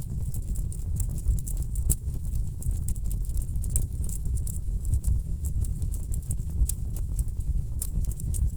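Wood fire burning in a fireplace: burning logs crackling with irregular sharp snaps over a steady low rumble of the flames.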